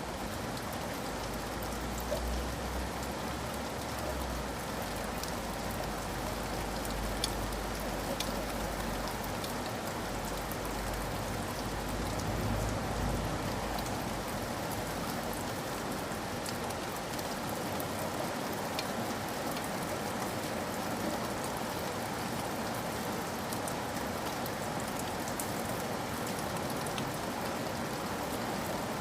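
Steady rain falling, with scattered sharper drop impacts and a low rumble under it for about the first half.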